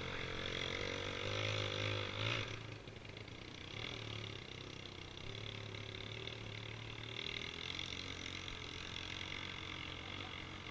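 Dirt bike engine running with a wavering pitch, then dropping off about two and a half seconds in to a quieter, steadier run.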